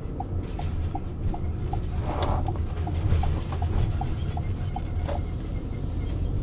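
Car cabin noise while driving: a steady low road rumble with a regular light ticking about two and a half times a second, which stops about five seconds in. There is a brief rustle just after two seconds.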